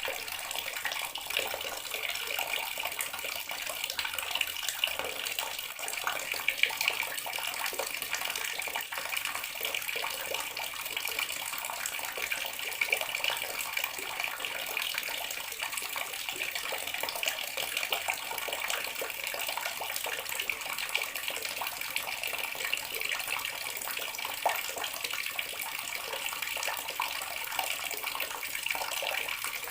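Bathroom water tap running steadily, its stream splashing into the basin below with small irregular spatters.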